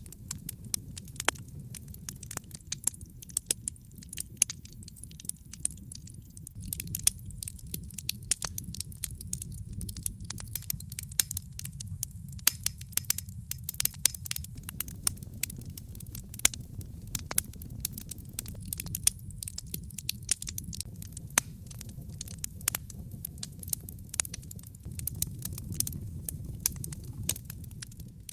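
Wood fire burning in a fireplace: dense, irregular crackles and pops over a steady low sound of the flames.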